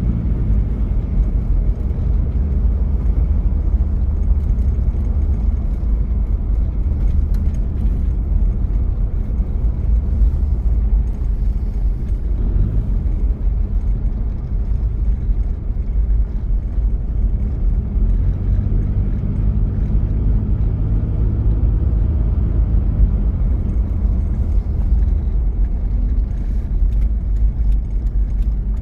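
1993 Toyota Prado's diesel engine running while the vehicle is driven, a steady low rumble mixed with road noise. Its engine note stands out more clearly near the start and again about two-thirds of the way in.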